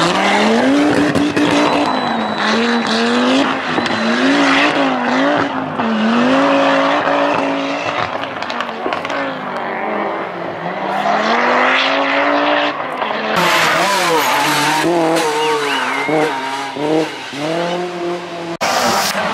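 Group B rally car engine driven hard, its pitch climbing and dropping again and again as the driver works through gear changes and lifts. Near the end the sound cuts abruptly, as at an edit to another car.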